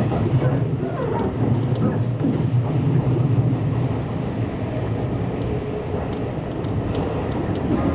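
Seibu Shinjuku Line electric commuter train running, heard from inside the car: a steady low rumble of wheels and running gear.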